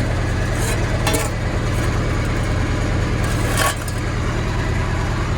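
A motor running steadily with a low hum, with a few short clinks or knocks about a second in and again at about three and a half seconds.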